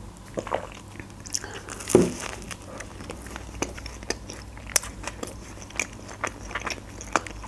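Close-up chewing and mouth sounds of someone eating a toasted doner sandwich: many small sharp wet clicks and crunches, with one louder thump about two seconds in.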